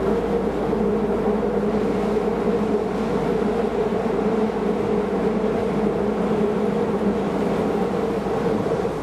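Keisei Line rapid train running, heard from inside the car: a steady drone of rolling and motor noise with a constant low hum.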